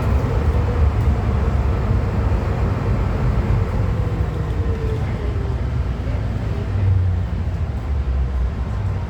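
MTR M-Train electric multiple unit running in the tunnel, a steady low rumble of wheels on rail, with a faint motor tone that falls in pitch midway as the train slows for the next station.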